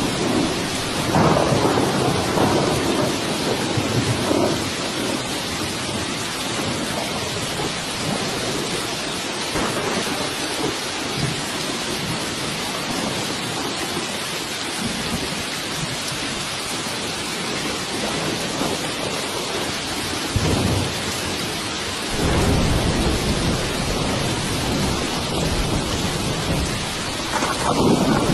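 Steady heavy rain with rolling thunder: a low rumble in the first few seconds and a longer, deeper roll that builds about two-thirds of the way through and runs on to the end.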